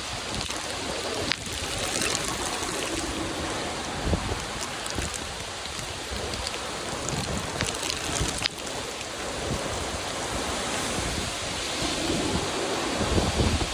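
Steady heavy rain pouring, with gusts of wind swelling low and rumbling on the microphone. Two sharp ticks cut through, one about a second in and one past the middle.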